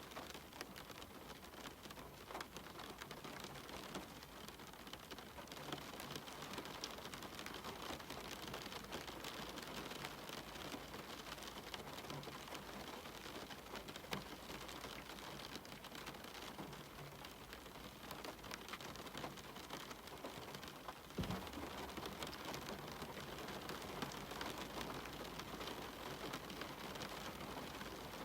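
Steady rain falling on a cabin window, with many separate drop hits. A single low thud about 21 seconds in.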